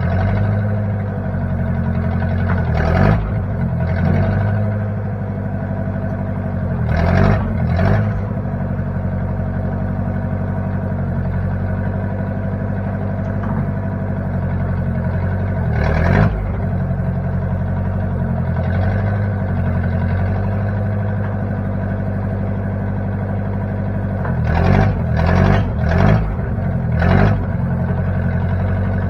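1960 Case 540 tractor-loader-backhoe's engine running at a steady speed, with short knocks and clunks now and then and a quick run of them near the end.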